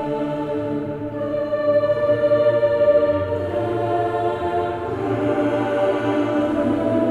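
Background choral music: voices holding long sustained chords that shift to new chords every couple of seconds.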